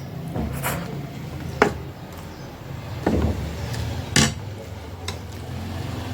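Cutlery clinking against a plate while eating noodles: a few sharp clinks, the loudest about a second and a half in and again about four seconds in, over a steady low hum.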